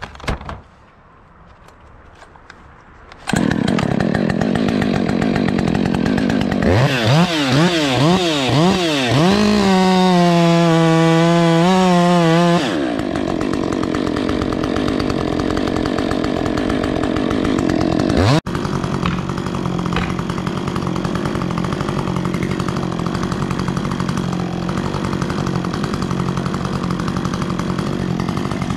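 Two-stroke chainsaw running. It is quiet for about three seconds, then the saw comes in loud, revs up and down several times, and holds at high revs for a few seconds before dropping back. Near the middle it cuts out briefly, then runs on steadily at high revs.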